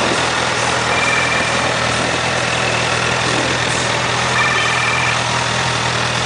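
2008 Honda CBR1000RR's inline-four engine idling steadily.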